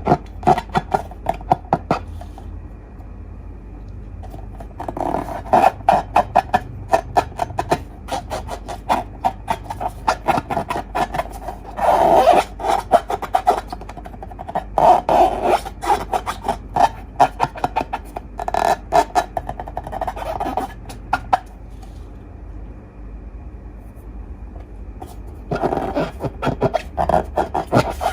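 Slime being squished and worked by hand, making dense wet crackling clicks in bursts a few seconds long with quieter gaps between.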